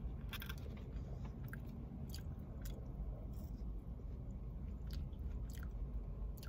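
A person chewing French fries dipped in sauce close to the microphone, with irregular wet mouth clicks and smacks over a low steady hum.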